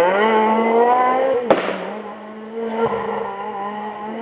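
Rally car engine revving hard, its pitch rising, then a single sharp bang about a second and a half in as the revs drop at a gear change. The engine then runs on at a steadier pitch and grows quieter.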